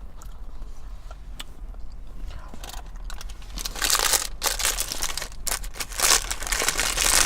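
Plastic takeout food packaging being handled, crinkling and crackling loudly from about halfway through, after a few light clicks.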